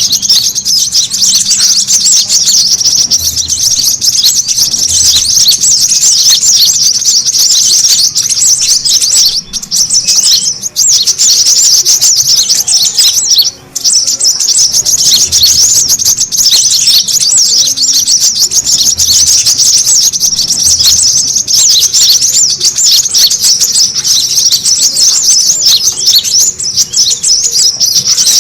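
Brown-throated sunbird (kolibri kelapa) giving a dense, continuous stream of rapid high-pitched chips and twitters, with a brief break about halfway through. This is the noisy, agitated call played as a lure to draw other birds in.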